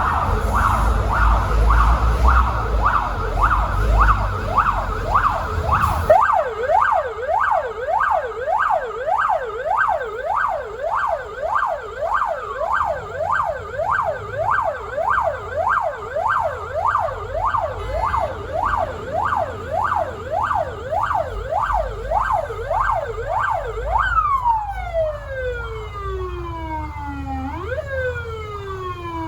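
Fire truck siren in a rapid yelp, sweeping up and down two or three times a second, with a low engine and road rumble under it for the first few seconds. Near the end the siren changes to slower, long falling sweeps repeated every couple of seconds.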